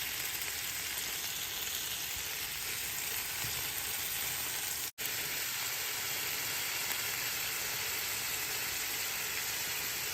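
Chicken sizzling steadily as it fries on a camp grill, with a brief break to silence about halfway through.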